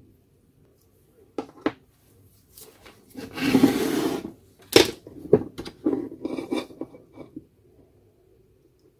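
Handling of small tool parts: a couple of clicks, a scraping rub lasting about a second, then sharp clicks and a run of small taps, some with a brief metallic ring.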